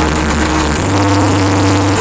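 Loud electronic dance music played through the Blizzard Audio carnival sound system, carried by a deep sustained bass line. The bass note steps lower for about the first second, then moves back up.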